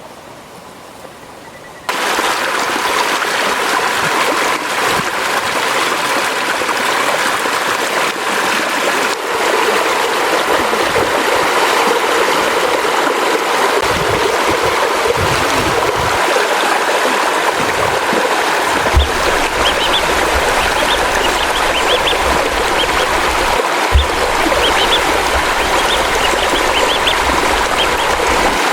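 Steady rushing of running water, like a stream, starting abruptly about two seconds in.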